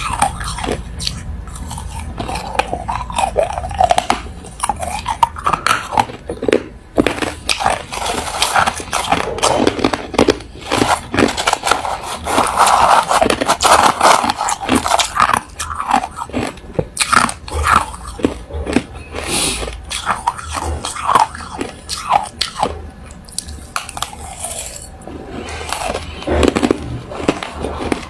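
Close-miked biting and chewing of hard refrozen crushed ice: loud, dense, irregular crunches throughout.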